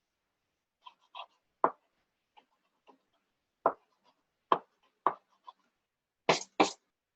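A string of short, sharp taps and knocks on a hard surface, about a dozen, irregularly spaced, with the loudest two in quick succession near the end.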